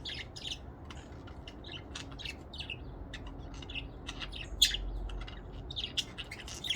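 Pet budgerigars chirping and chattering, a busy run of many short high chirps with one sharper, louder chirp about four and a half seconds in.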